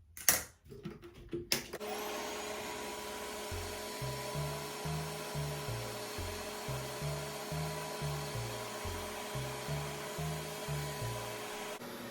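RevAir reverse-air hair dryer running: a steady rush of suctioned air with a steady motor whine, starting about two seconds in after a few knocks of handling. Background music with a rhythmic bass line comes in about three and a half seconds in.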